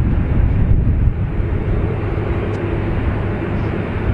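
Jet airliner engines running, a loud, steady rumble, with a faint steady hum coming in about half a second in.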